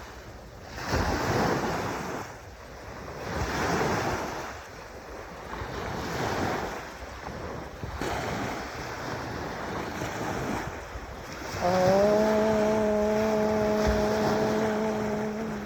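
Ocean waves washing in on a beach, swelling and fading every couple of seconds. About twelve seconds in, a steady low pitched tone comes in and holds.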